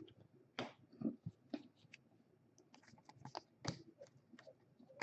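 Faint handling of trading cards and packs: scattered soft clicks and rustles as cards are slid, flicked through and set down, a few of them a little louder.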